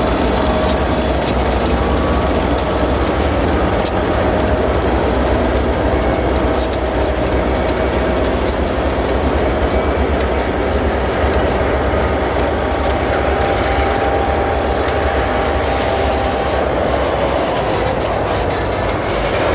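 Ann Arbor Railroad freight train passing close by: its diesel locomotives go by at the start, then loaded covered hopper cars roll past with the clickety-clack of wheels over rail joints. Under it runs a steady high wheel squeal that slides lower over the last few seconds.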